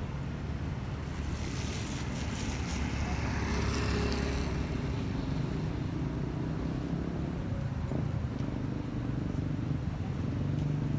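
Road traffic: a steady engine rumble, with a vehicle passing about two to four seconds in, its tyres hissing on the rain-wet road.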